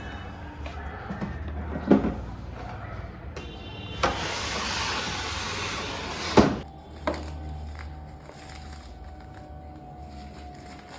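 Packaging and tool case being handled: a few sharp knocks and a stretch of rustling or scraping in the middle, then a steady tone, with soft background music.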